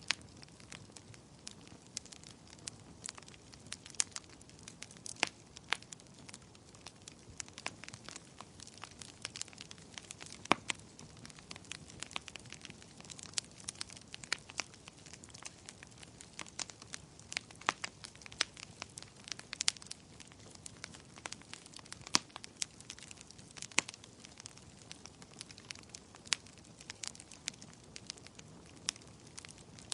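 Fireplace fire crackling, with irregular sharp pops over a faint steady hiss.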